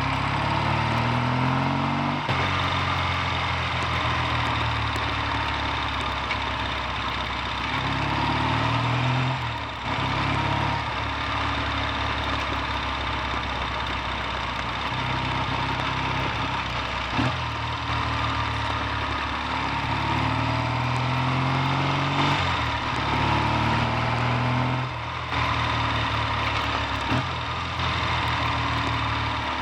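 Triumph T140V Bonneville's 750 cc parallel-twin engine under way, rising in pitch as it pulls through the revs and dropping back at each gear change, several times over, after its gearbox repair.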